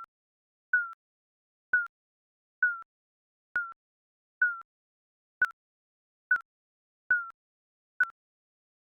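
Countdown timer's digital beeps: short high electronic blips, each dipping slightly in pitch, repeating a little faster than once a second with silence between.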